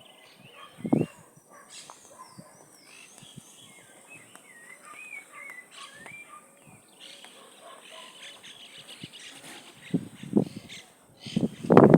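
Small birds chirping repeatedly in quick, warbling calls. There is a short loud low sound about a second in, and louder bursts of sound near the end.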